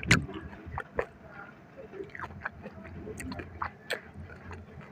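Close-miked mouth chewing a bite of kimchi: irregular crisp clicks and crunches, several a second.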